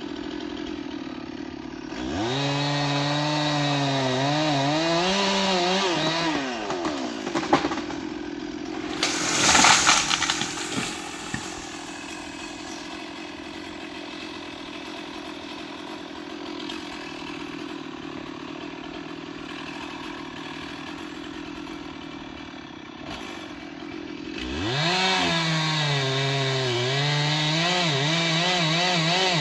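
Stihl two-stroke chainsaw idling, then revving up into a cut for about four seconds, its note wavering under load. A loud crash comes about ten seconds in. The saw idles for a long stretch, then revs into a cut again for the last five seconds.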